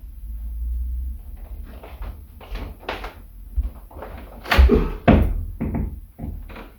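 A run of irregular knocks and thumps over a low rumble, the loudest two about four and a half and five seconds in.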